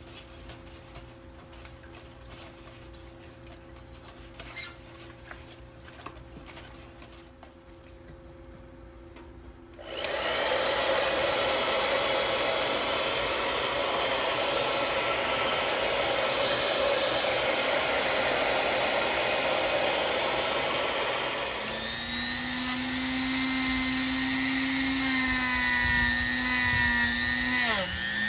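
Power tool motor running steadily, starting abruptly about a third of the way in, much louder than the light clicking and low hum before it. About two-thirds in, the sound turns into a steady pitched motor tone, which dips briefly in pitch near the end as if under load.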